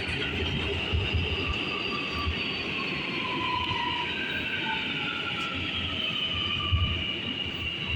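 R211A subway train running on the rails, its wheels squealing in several high, drawn-out tones that slowly fall in pitch over a steady running rumble.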